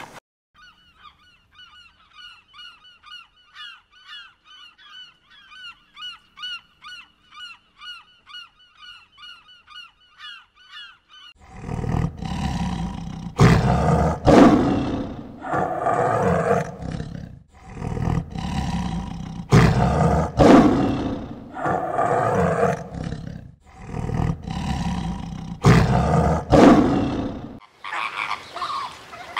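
A bird's quiet, rapid chirping, about two or three notes a second, then a long series of loud, harsh animal calls, each a second or so long with short breaks between.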